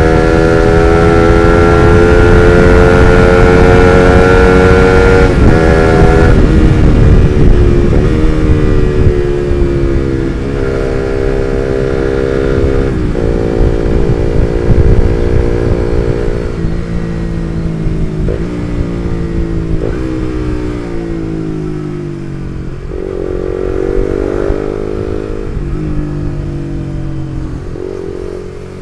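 Suzuki GSX-R150's single-cylinder engine through an R9 Misano aftermarket exhaust, ridden hard and revving up through the gears, with the pitch dropping at each shift. In the second half it eases off, the pitch falling, with several short upward jumps that sound like downshifts.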